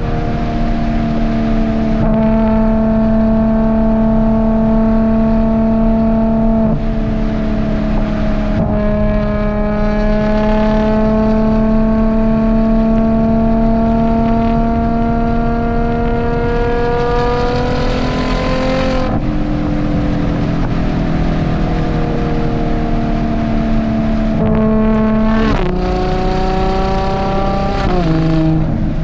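Ferrari Purosangue's 6.5-litre naturally aspirated V12 running under load through a Novitec race exhaust. The engine note holds or climbs slowly, then drops abruptly at gear changes, with quick rise-and-fall pitch swings in the last third.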